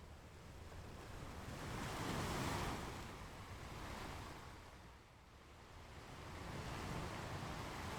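Ocean waves washing onto a beach, the surf rising and falling in slow swells, breaking about two seconds in and again near the end.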